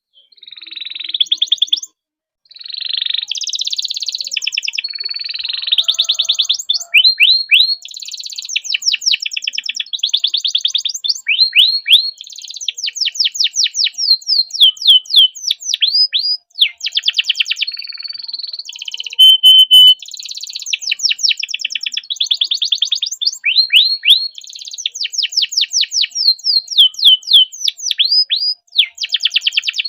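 Domestic canary singing a long continuous song of fast trills and rolls: rapid runs of repeated notes, downward-sweeping whistles and a short steady whistled note, with a brief pause about two seconds in.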